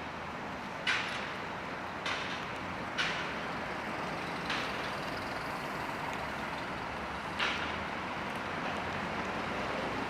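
Steady hiss of rain on a city street, with five sharp taps at irregular intervals.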